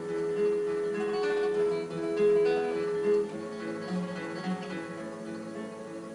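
Acoustic guitar music, with one note held through about the first half before the notes change.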